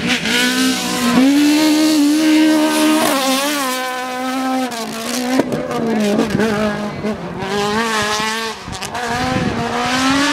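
A race car's engine running hard at high revs, its pitch holding and wavering with a few dips, over a hiss of tyre noise.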